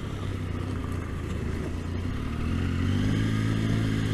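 Triumph Tiger motorcycle engine running steadily at road speed. About three seconds in, a second engine note comes in and grows louder: an oncoming car approaching fast.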